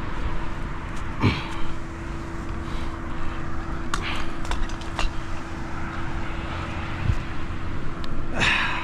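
A motor running with a steady hum over a low rumble, with two short rushing noises, one about a second in and one near the end.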